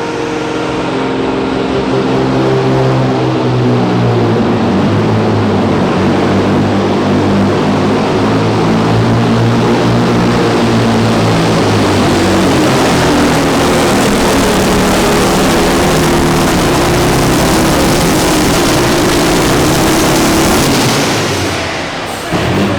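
Diesel truck engine running hard under full load on a pull, loud and steady with a strong rushing hiss over the engine note. It eases off near the end.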